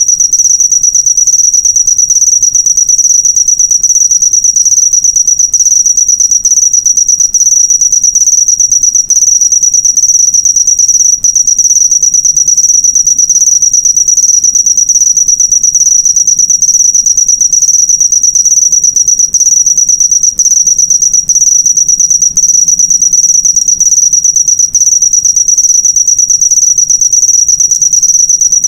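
Cricket chirping in a fast, unbroken high-pitched trill, loud and steady throughout.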